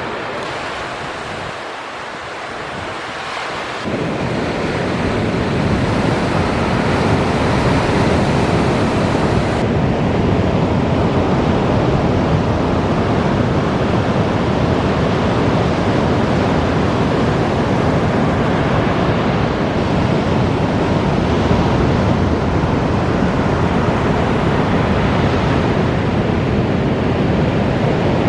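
Ocean surf breaking, a steady rushing noise, with wind rumbling on the microphone. It grows louder and deeper about four seconds in.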